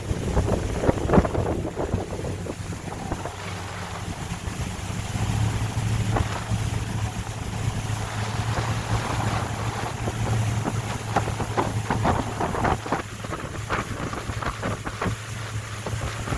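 Motorboat engine running under way with a steady low hum, wind buffeting the microphone, and scattered short knocks and splashes of water against the hull.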